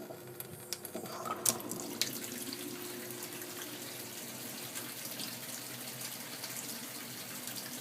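Water running steadily with a hiss, after a few sharp clicks about a second in.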